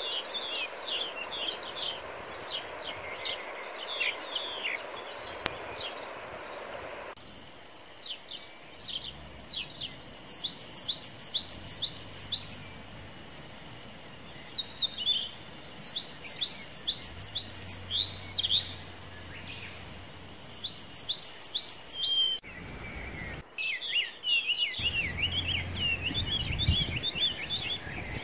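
Birds chirping and singing, with repeated quick runs of high descending notes in bursts of about two seconds over a faint outdoor hiss. The background changes abruptly a few times, and a low rumble comes in near the end.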